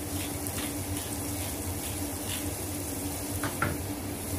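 Dried and fresh shrimp with tomato sizzling in oil in a frying pan over a gas burner, a steady hiss. A few short scratchy grinds of a wooden pepper mill over the pan in the first second or so.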